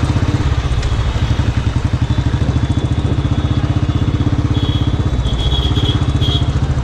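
Royal Enfield motorcycle engine running under way, with a steady, rapid thumping exhaust beat. A few short high-pitched tones sound over it in the second half.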